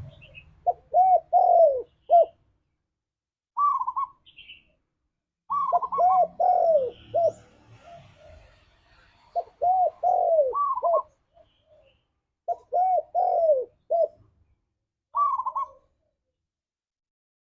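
Spotted dove cooing. It gives four phrases of several arched, falling coos, with shorter, higher notes between them.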